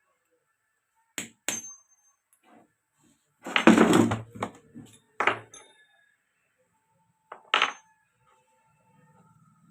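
Sharp metallic clinks and knocks of small metal parts and tools being handled, a few with a brief bright ring, and a heavier clatter a few seconds in.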